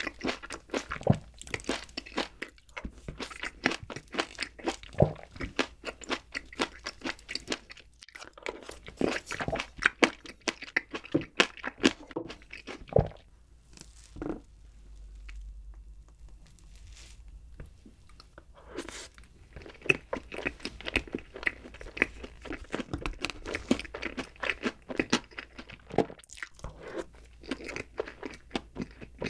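Close-miked chewing of mixed-berry chocolate layer cake: dense, rapid wet mouth clicks. The clicks fall away for a few seconds about halfway through, then start again.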